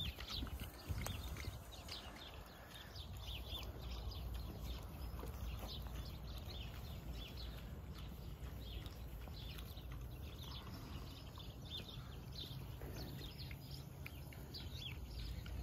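Small birds chirping over and over, many short quick chirps, above a steady low rumble.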